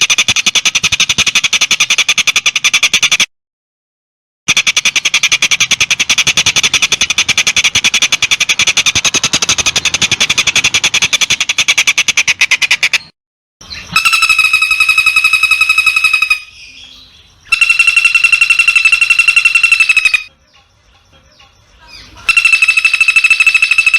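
Recorded bird calls in a masteran track for training a long-tailed shrike: a fast, dense, high trill for about thirteen seconds, broken once by a short silent cut. After that come three long, steady, high pitched calls, each two to three seconds long with short pauses between.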